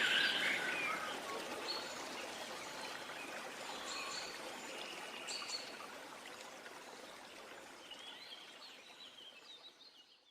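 A running stream with birds chirping over it. The birdsong is strongest in the first second, and the whole recording fades out steadily towards the end.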